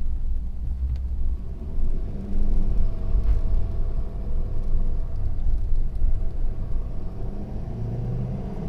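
A Ford F-250's Power Stroke diesel truck cruising on a highway, with a steady low rumble of engine and road noise.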